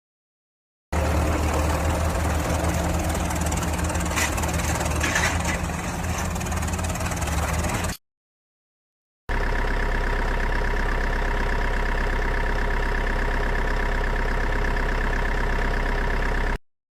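Machinery running steadily in two short clips, each ending in an abrupt cut to silence. The first is noisier, with a few brief clatters in the middle; the second is an even, unchanging drone.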